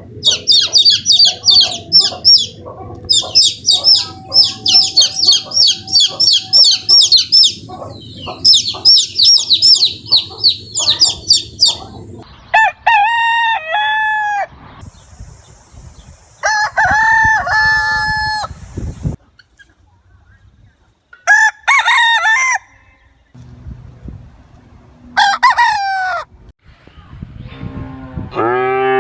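Chickens: a rapid, high-pitched run of calls for about the first twelve seconds, then roosters crowing four times, each crow a long call that falls at the end.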